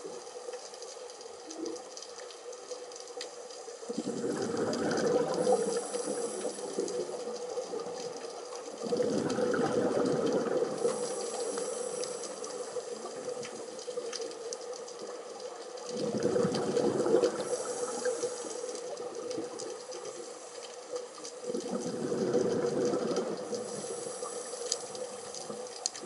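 Scuba diver breathing through a regulator underwater: four bubbling exhalation surges about six seconds apart, with fainter hissing between them.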